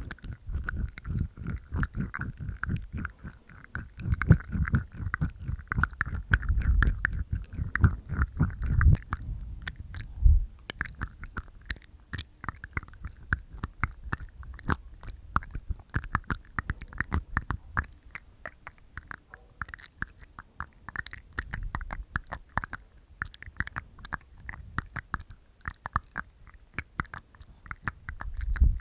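Close-miked mouth sounds made inside the mouth for ASMR: rapid wet tongue clicks and teeth clicks, with no lip sounds. They are heavier and deeper for the first ten seconds or so, then lighter and crisper.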